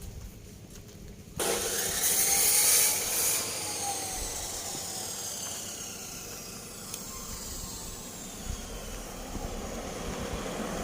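A motor vehicle going by, coming in suddenly about a second and a half in, loudest soon after, then fading away with a slowly falling pitch.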